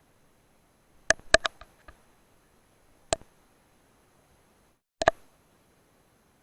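A series of sharp metallic clicks: three in quick succession about a second in, a single click near the middle, and a quick double click about five seconds in.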